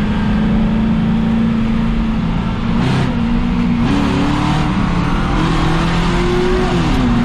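Race car engine heard from inside the car, running at caution pace with a steady note. The revs step up about four seconds in and again a little later, then drop back near the end.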